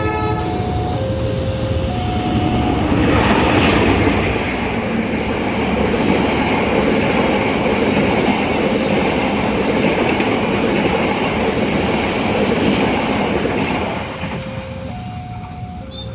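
A train passes a railway level crossing at speed, with heavy rumble and wheel-on-rail noise that swells about three seconds in and fades about fourteen seconds in. The crossing's warning signal, an alternating two-note chime, sounds at the start and again as the train clears.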